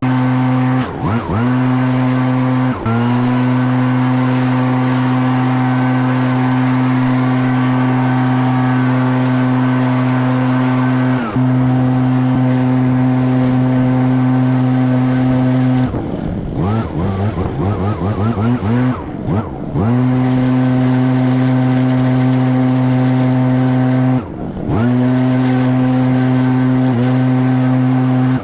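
Echo PB-9010T backpack leaf blower's two-stroke engine running steadily at full throttle, its pitch dipping and coming back each time the throttle is briefly let off: about a second in, near three seconds, and again a few times later, with a quick run of throttle blips a little past halfway.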